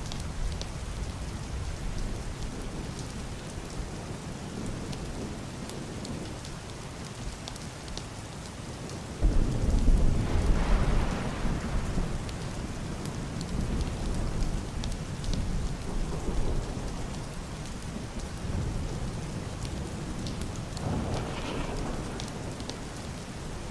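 Heavy rain on a roof and glass window: a steady hiss with scattered sharp drop ticks. Muffled thunder breaks in suddenly about nine seconds in, rumbles loudest for a few seconds and rolls away, and a fainter roll follows near the end.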